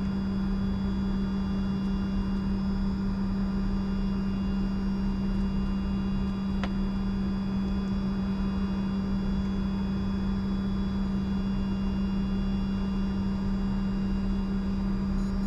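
Steady cockpit noise of a Bombardier Challenger 605 taxiing with its engines running: a constant low hum under several steady whining tones, with a single click about six and a half seconds in.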